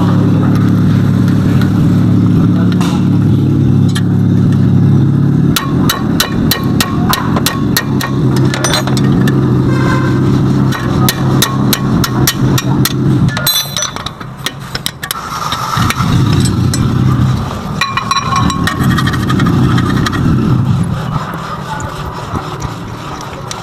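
Car engine running steadily, with a rapid series of sharp metallic clicks and knocks from about six seconds in to about thirteen seconds in, after which the engine sound drops away and comes back unevenly.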